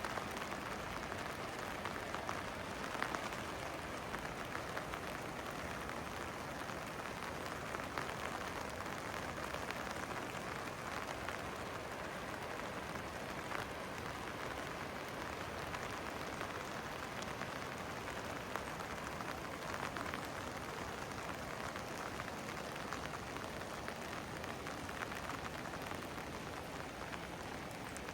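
Steady rain falling and pattering on hard surfaces, with a few sharper drop ticks standing out now and then.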